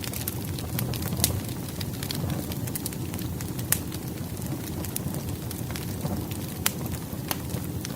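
Wood fire crackling: a steady low rush with sharp, irregular pops and snaps from the burning logs.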